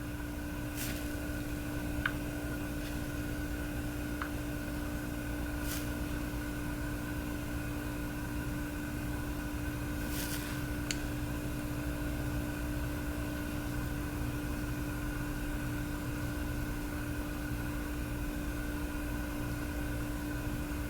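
Steady machine hum with a fixed tone, and a few faint clicks and ticks now and then.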